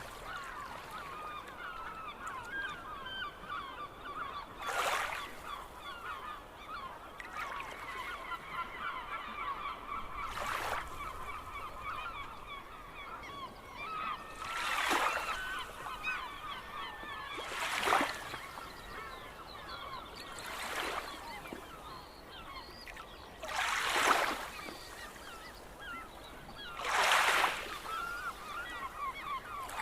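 A flock of gulls calling without a break, many short cries overlapping. Short rushing whooshes cut in every few seconds, each louder than the calls.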